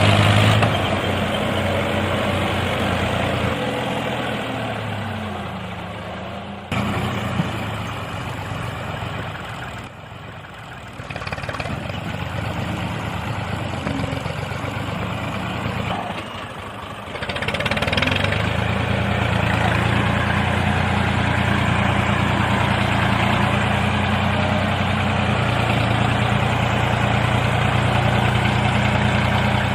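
A small engine running steadily with an even, idling-like hum. It breaks off and resumes abruptly a few times, then runs steady and louder for the last part.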